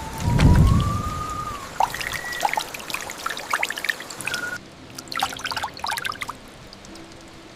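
Rain falling, with a short low rumble of thunder about half a second in. Scattered drips and patters follow, growing quieter about four and a half seconds in.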